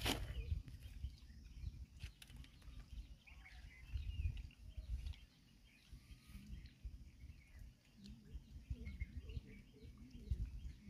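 Open-air lakeside ambience: faint, scattered bird chirps over an uneven low rumble of wind on the microphone.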